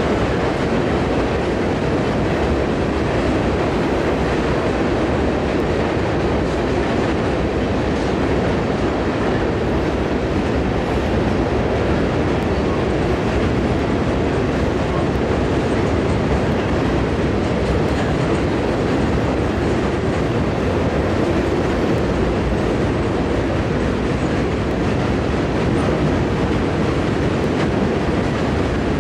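Train cars rolling along the rails: a steady rumble of wheels on track, with some clickety-clack.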